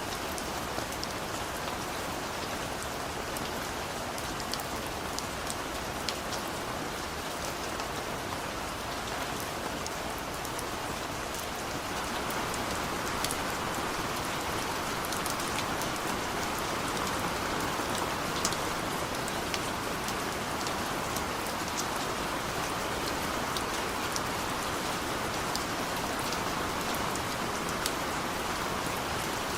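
Steady rain falling, with many individual drops pattering on a surface. The rain grows a little louder about twelve seconds in.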